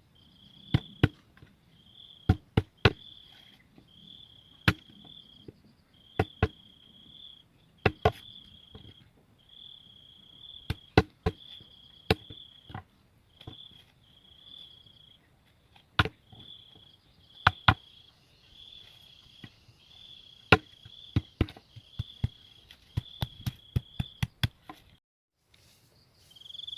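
An insect, such as a cricket, chirping in short repeated trills, with irregular sharp chopping knocks throughout, often in quick pairs.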